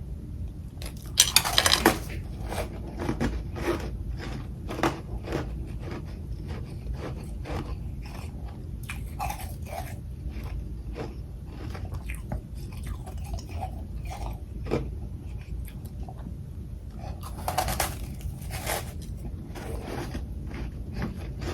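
A person biting into and chewing frost and crushed ice: two loud crunching bites, one about a second in and one near the end, with a run of smaller crunches from chewing between them.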